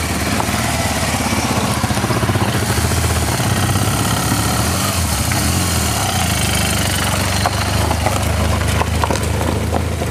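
Motorcycle engine running steadily, with a few light clicks and knocks later on.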